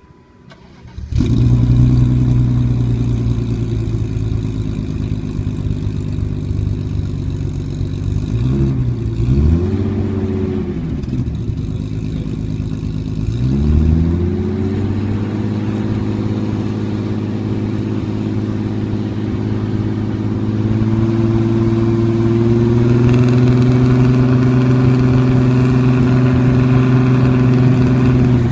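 BMW E34 M5's S38B36 3.6-litre inline-six with the exhaust midsection replaced by a straight pipe: it fires up about a second in and idles, is blipped twice with quick revs that drop back, then idles steadily, rising slightly in pitch near the end.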